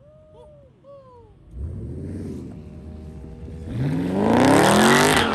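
Car engine revved hard: a shorter rev about a second and a half in, then a long rise in pitch from about three and a half seconds in that grows loud near the end, with a wide hiss over it. A few faint short squeals come in the first second.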